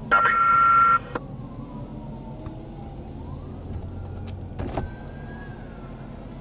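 A loud horn blast lasting about a second at the start, then a faint siren wailing slowly up and down, with a single knock near the end.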